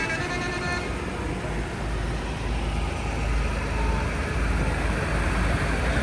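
Tractor engines running as they pass along the road: a low engine rumble mixed with road noise that swells slightly a couple of seconds in.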